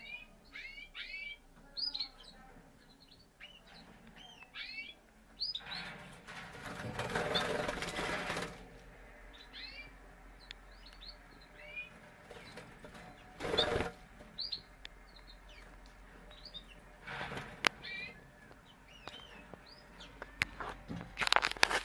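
Parisian Frill canaries giving short, repeated chirps. The chirps are broken by several bursts of wing flapping, and the longest flapping comes about a third of the way in.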